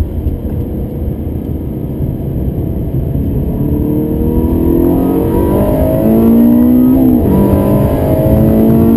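Ferrari 360 Modena's 3.6-litre V8 heard from inside the cabin, pulling hard under acceleration. After a first few seconds of mostly road rumble, the engine note climbs steadily, drops sharply at an upshift about seven seconds in, then climbs again and grows louder.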